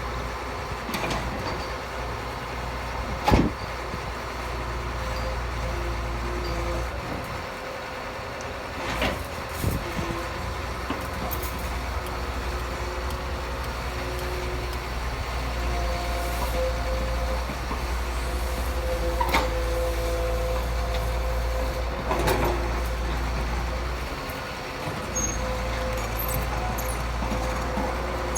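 Heavy construction machinery running at a steady low rumble, with a steady whine over it and several sharp metal knocks, the loudest about three seconds in.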